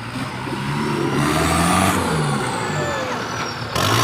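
Off-road 4x4's engine revving under load. The pitch climbs for about two seconds, drops, then climbs again near the end, with a thin high whine rising and falling above it.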